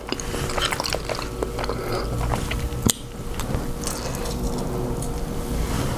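Close-miked eating of king crab: wet chewing and smacking with scattered small clicks, and one sharp click about three seconds in.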